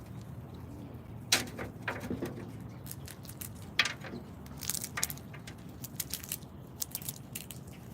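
Irregular sharp clicks and knocks from animals at a backyard feeder, a few louder ones and then a quicker run of small ticks, over a steady low hum.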